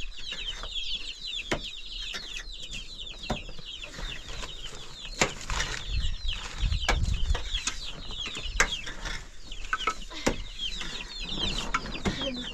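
Many birds chirping continuously in short, high, downward chirps, with scattered sharp knocks and a brief low rumble about six to seven seconds in.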